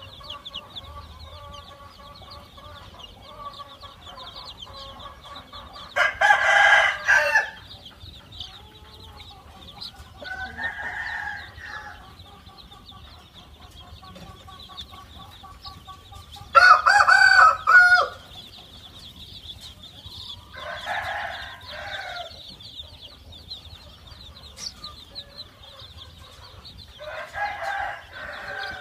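Khmer chicken roosters crowing five times, each crow a second or so long and a few seconds apart, the loudest in the middle. Chickens cluck quietly in between, over a steady high-pitched buzz.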